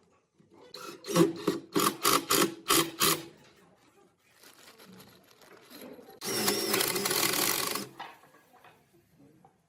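Woodworking tool noise: a quick run of about eight even strokes, then, a few seconds later, a loud steady burst of a power tool lasting under two seconds.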